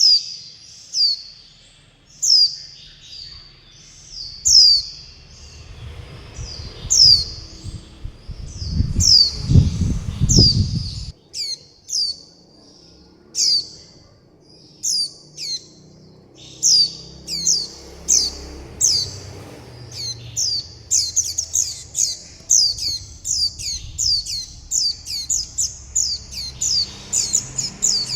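Juvenile white-eye (vành khuyên) giving repeated high, thin begging and contact calls, each a short falling chirp. They come every second or so at first, then in a quick run of several a second near the end.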